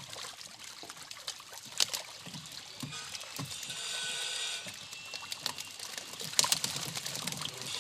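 Water sloshing and trickling around a small wooden fishing boat, with a few sharp knocks, the loudest about two seconds in and again past six seconds.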